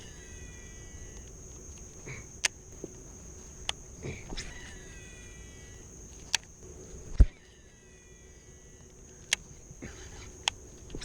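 Lakeside ambience: a steady high insect drone, with a bird repeating a short sweeping phrase every three to four seconds. Sharp clicks come every second or two, and a low thump about seven seconds in is the loudest sound.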